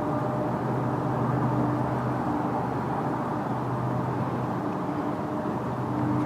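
Steady low mechanical rumble with a constant hum, like a running vehicle.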